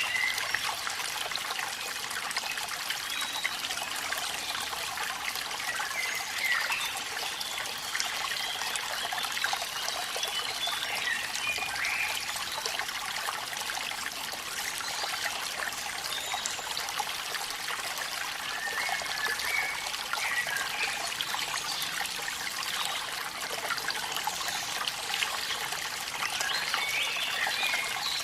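Steady rush of running water from a small waterfall in the rain, with faint short chirping calls now and then.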